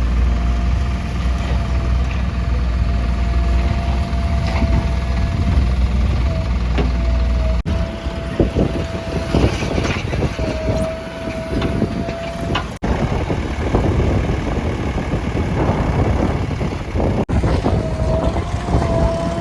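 Diesel engines of backhoe loaders and tractors running under load, with a steady whine over the engine rumble. The sound changes abruptly three times where the footage is cut.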